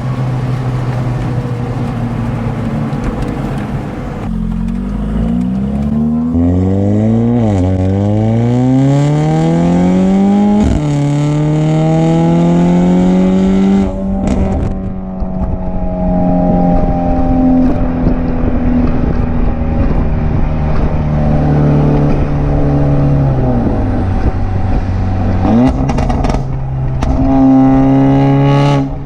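Straight-piped Mercedes-AMG CLA45's turbocharged four-cylinder engine on the move: running steadily, then climbing in revs for several seconds under throttle, dropping back and holding steady, with another fall and a quick rise in revs near the end.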